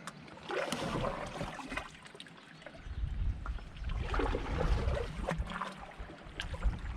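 Kayak paddle strokes splashing and dripping in the water beside an inflatable kayak, in two spells a few seconds apart. Wind rumbles on the microphone from about three seconds in.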